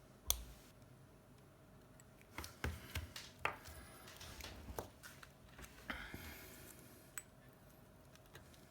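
Small tools and phone parts handled during an iPhone 7 screen repair, giving light clicks and taps: one sharp click at the start, a quick cluster of taps a few seconds in, and a brief scrape later. A faint steady hum runs underneath.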